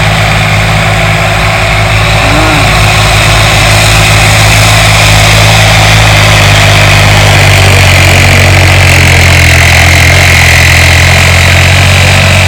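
A turbocharged diesel tractor engine running steadily and loudly. A high whine sits above the engine note and grows stronger past the middle, while the engine note shifts slightly about halfway through.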